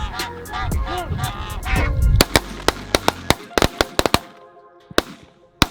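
Geese honking over background music, then a rapid volley of about ten shotgun shots in two seconds as hunters fire on the flock, followed by two more single shots near the end.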